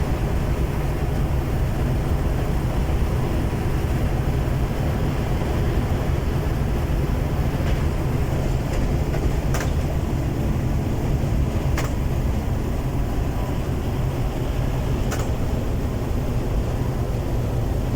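DR1B diesel train running at speed, heard from aboard: a steady, heavy low rumble of engine and running gear, with a few sharp clicks in the middle stretch.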